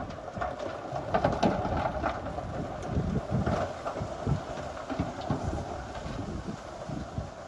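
Heavy earthmoving machinery working: a diesel engine running steadily under irregular low knocks and clanks.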